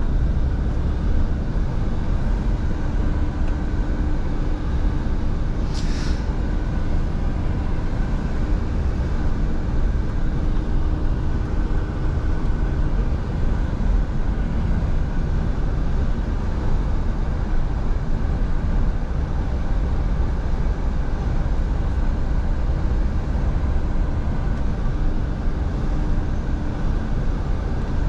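Scania V8 truck driving at a steady pace: a constant engine drone with road noise, and one short click about six seconds in.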